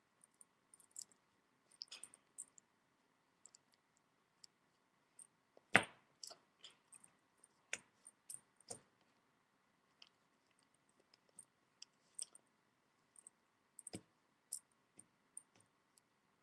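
Faint, scattered clicks and taps at irregular intervals, with the loudest about six seconds in and another near fourteen seconds.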